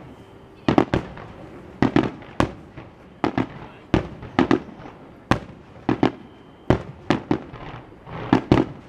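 Starmine fireworks display: aerial shells bursting in a rapid series, a loud bang or a quick cluster of two or three bangs about every second.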